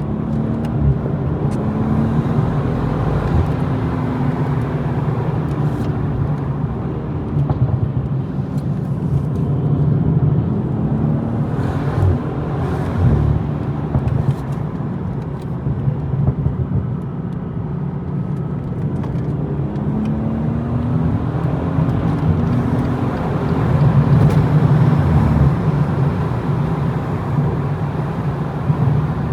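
BMW M240i's turbocharged inline-six engine being driven hard, the revs climbing and dropping again and again, over road and tyre noise. A couple of sharp knocks about twelve seconds in, and the engine is loudest near the end.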